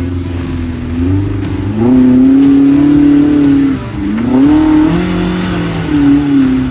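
Side-by-side UTV engine revving in surges as it climbs a rocky waterfall obstacle. The pitch rises sharply a couple of seconds in and holds, drops near the middle, then climbs again.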